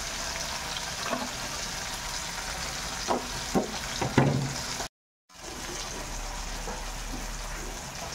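Onion and tomato frying in oil in a wok, a steady sizzle, with a few light knocks in the first half. The sound cuts out for a moment about five seconds in, then the sizzle carries on.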